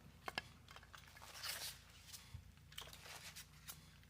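Faint handling noise of packaging being opened: a few sharp clicks and a soft rustle of paper or plastic.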